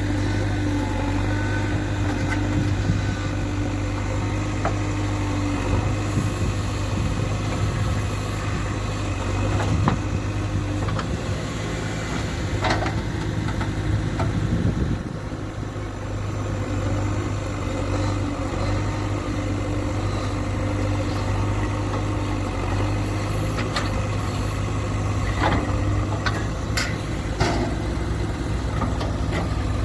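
Diesel engine of a JCB 3DX backhoe loader running steadily, with a few sharp clanks and a short dip in level about halfway through.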